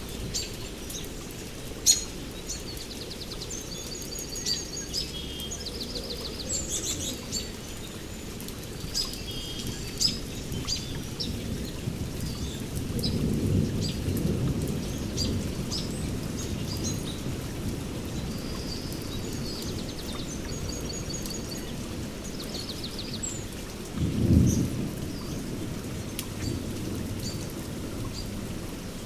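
Rainforest rain with distant thunder rumbling low, swelling once about halfway through and again more sharply later on, while birds keep up short high chirps and trills and scattered drops tick.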